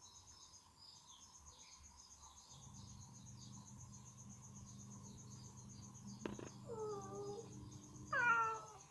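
Domestic cat meowing twice near the end, each call falling in pitch, the second louder and shorter, with a sharp click just before the first. Crickets chirp steadily in the background.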